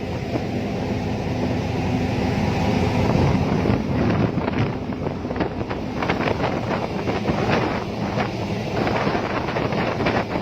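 Wind rumbling on the microphone, with scattered short crackles from about four seconds in.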